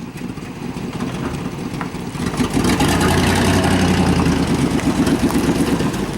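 A 1997 Suburban's swapped-in 5.7-litre V8 running, growing louder about two and a half seconds in and then holding steady. The exhaust is leaking at a bad catalytic converter, with the new exhaust not yet fitted.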